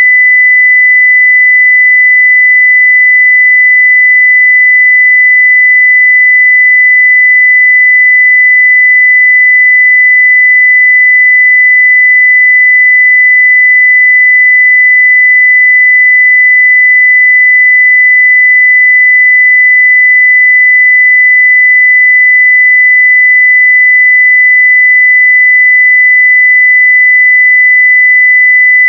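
A 2 kHz sine-wave test tone at full level (0 dB), one pure steady pitch held without change.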